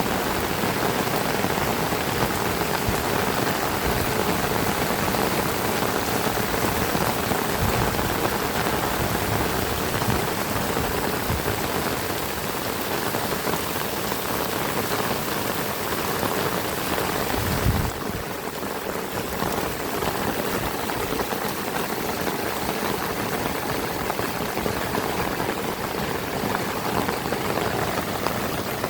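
Heavy rain falling steadily in a dense, even hiss. About two-thirds of the way through there is one brief low thump, after which the high end of the hiss eases slightly.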